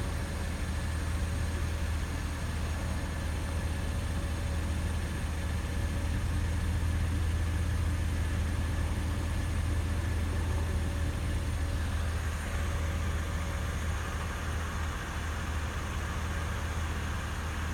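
A vehicle engine idling with a steady low hum and a faint steady whine above it.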